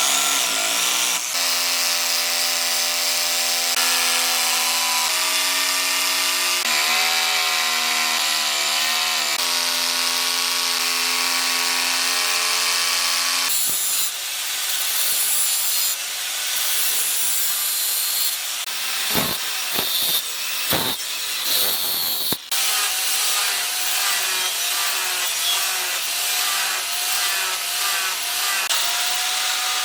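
A power tool running, its pitch stepping up and down as the load changes. From about midway it gives way to rhythmic, evenly repeated scraping strokes of a tool working the material.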